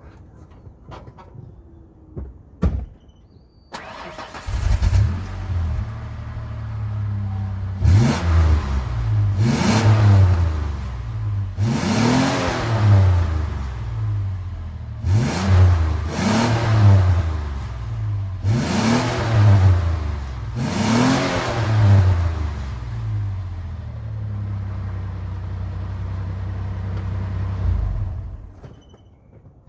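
1997 Ford Explorer's OHV V6 through a Flowmaster exhaust, starting about four seconds in and then revved in about seven quick throttle blips. It settles to a steady idle and is shut off shortly before the end.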